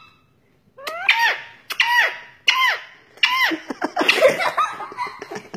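Pet parrot calling: about five short squawks whose pitch rises and then drops sharply, followed by a quicker run of chattering calls near the end.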